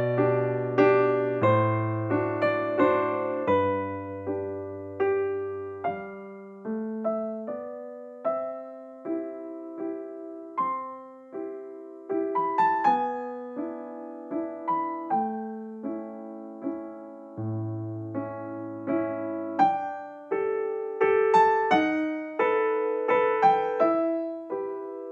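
Background piano music: a gentle melody of single decaying notes over slow bass notes, quieter through the middle and busier near the end.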